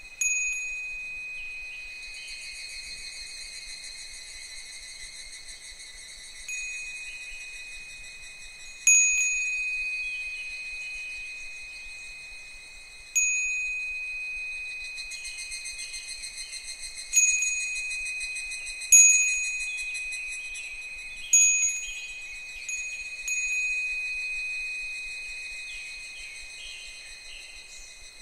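Japanese wind bell (fūrin) struck irregularly by the breeze, about nine clear strikes, each ringing on in a high bell tone that fades slowly. Higurashi cicadas call faintly underneath.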